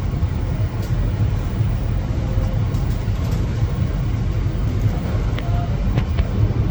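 Low, steady rumble of a Boeing 777's jet engines during takeoff, heard from a distance.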